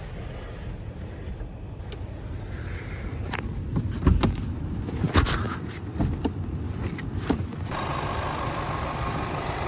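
2014 Range Rover Sport HSE engine idling, a steady low rumble, with a string of clicks and thumps from handling the vehicle around the middle. Near the end a steady, brighter running noise comes in suddenly and stays.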